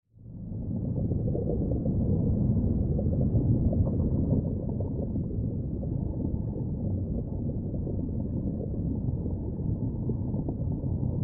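A steady low rumbling noise with no clear pitch, fading in at the start and then holding level.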